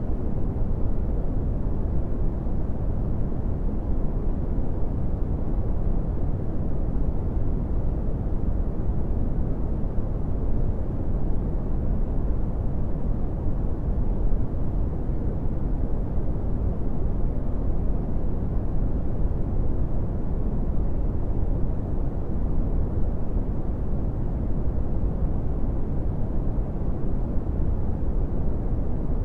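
Brown noise: a steady, deep rumbling hiss, strongest in the bass and fading off in the highs, with no changes.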